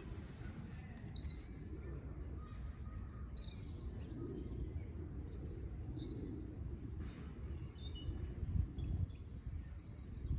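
Birds chirping: short, scattered high calls over a steady low rumble.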